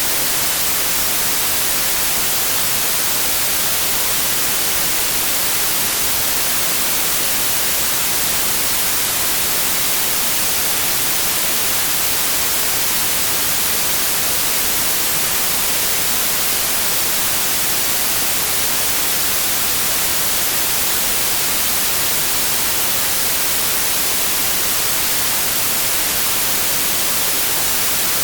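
Steady, unbroken white noise: an even hiss across the whole range, loudest in the treble, with no changes.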